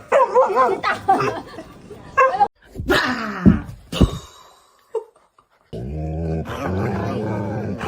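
A dog whining and yipping in high, wavering cries, with a louder cry about three seconds in. After a short pause, music starts near the end.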